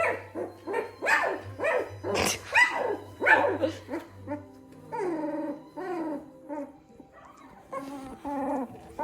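A two-week-old Labrador Retriever puppy crying: quick short squeals, two or three a second, then longer drawn-out whining calls in the second half. It is upset, crying for its absent mother.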